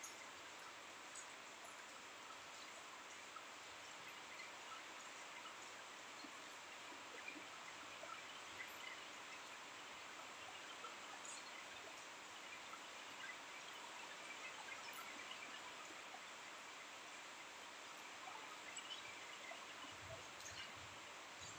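Faint, steady hiss of rain falling, with scattered light ticks of drops.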